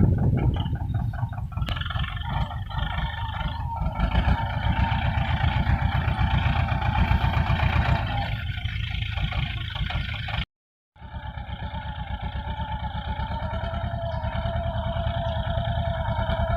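Swaraj 724 FE tractor's two-cylinder diesel engine running steadily with rapid, even firing pulses. The sound cuts out abruptly for about half a second around ten seconds in, then resumes.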